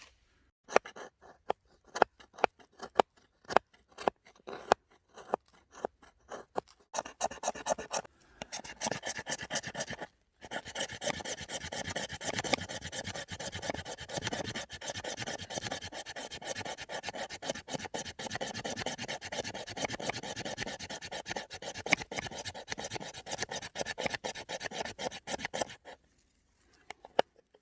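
Knife working a piece of resinous fatwood: sharp separate knocks for the first several seconds, then steady rapid scraping and shaving strokes that stop a little before the end.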